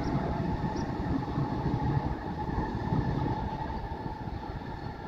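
Suburban electric multiple-unit train running away along the track, its rumble on the rails fading steadily as it recedes, with a faint steady tone underneath.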